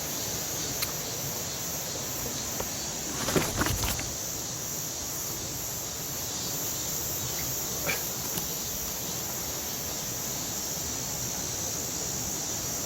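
Steady rush of a mountain stream with a high, steady insect drone over it. There are a few brief knocks, with a short cluster of them about three and a half seconds in.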